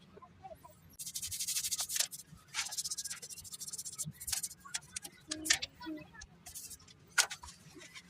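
Brush scrubbing over a car engine's parts: irregular scratchy strokes, densest from about one to two seconds in, with scattered sharp clicks and knocks.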